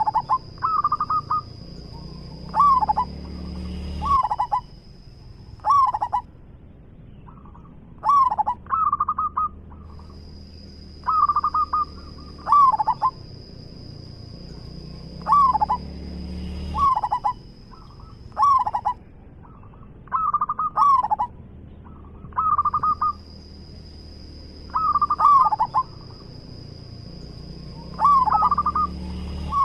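Zebra dove (perkutut) cooing over and over: short rolling phrases of clipped coos, repeated every second or two. A thin, steady high whine sounds behind it in long stretches, stopping and starting again.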